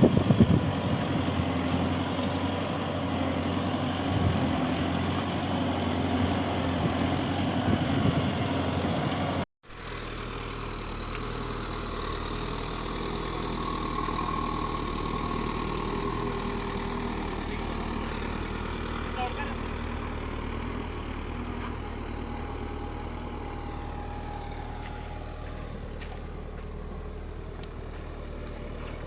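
Kubota tractor's diesel engine running at a steady idle. The sound drops out for a moment about ten seconds in, then the engine continues, a little quieter and steadier.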